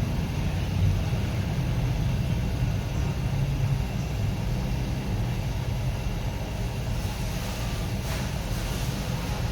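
Huebsch washing machine running: a steady low rumble from the turning drum and motor.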